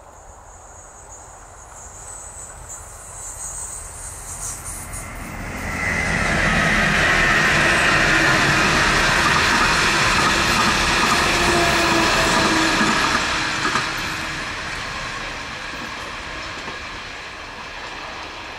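A diesel-hauled works train of yellow track-maintenance wagons passing close by. It grows louder over the first six seconds, stays loud for about eight seconds as the wagons go past, then fades as it moves away.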